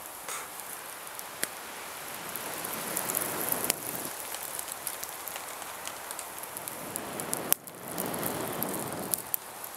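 Rain falling: a steady hiss that swells and eases twice, with scattered sharp ticks.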